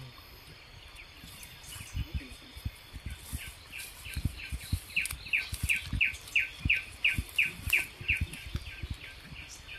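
A bird calling a long run of short, falling chirps, about three a second, which starts faintly a few seconds in and grows clearer. Scattered low thuds of handling and footsteps come underneath.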